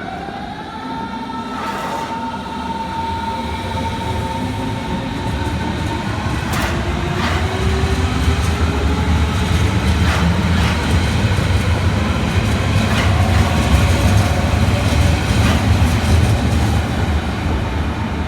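Electric train accelerating: its traction motors whine, rising in pitch for about the first second and then holding steady. The wheels rumble louder and louder, with a few clacks over rail joints.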